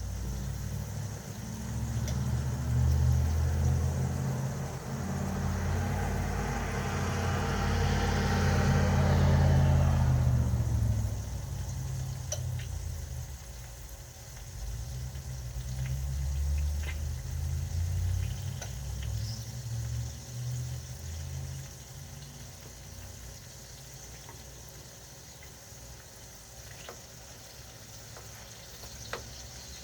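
Stovetop cooking noise: a low, uneven rumble throughout, with a rushing, hissing sound over it for the first ten seconds or so that then fades out, and a few faint clicks later on.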